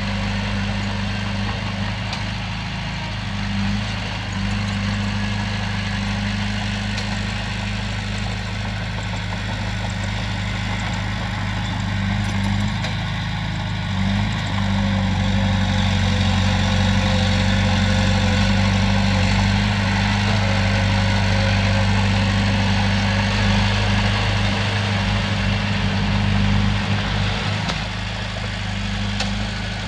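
Bulldozer's diesel engine running steadily with a low drone, a little louder from about halfway through and easing again near the end.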